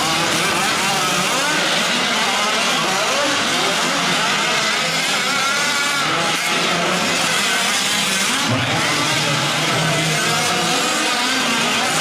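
Several 1/5-scale gas RC trucks' small two-stroke engines racing together, their pitches rising and falling over each other as the throttles open and close.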